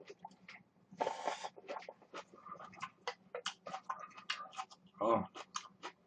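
Close-miked eating sounds: someone chewing and slurping spicy instant noodles, with many short wet smacks and clicks and a longer noisy slurp about a second in.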